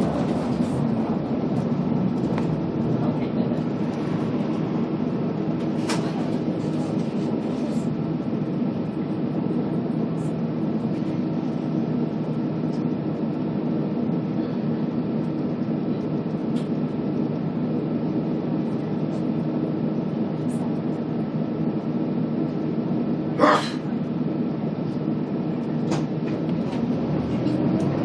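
Scania K280UB city bus engine and drivetrain running steadily on the move. A brief sharp noise comes near the end.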